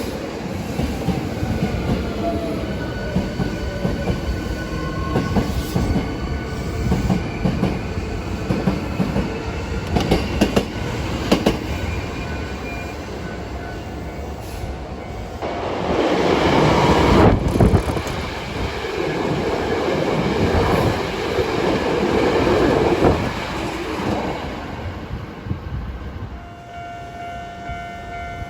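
Hankyu electric train running past with rumble and wheel clatter on the rails, loudest about 16 to 18 seconds in. Near the end the train noise drops and a few steady tones begin.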